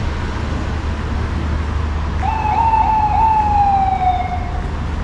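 Steady low rumble of city street traffic. About two seconds in, a single high squeal starts, steps up slightly a couple of times, then slowly sinks in pitch and fades about two seconds later.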